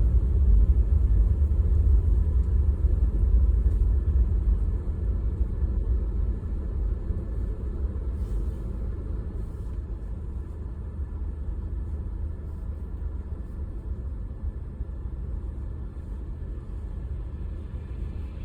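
Low, steady rumble of a car on the move, engine and tyres, growing gradually quieter through the second half as the car slows or eases off.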